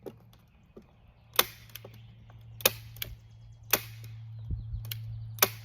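Hand staple gun firing staples through greenhouse plastic into a wooden board: several sharp snaps about a second apart.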